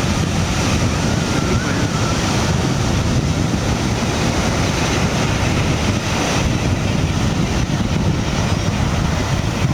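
Wind blowing across the microphone: a loud, steady rushing noise, heaviest at the low end.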